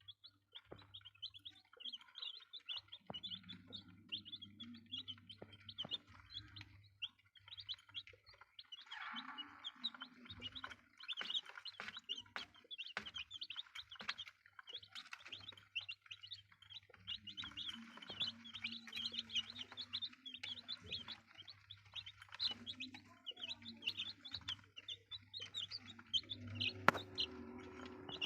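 Chicks peeping continuously in quick, high-pitched cheeps, over a faint low hum.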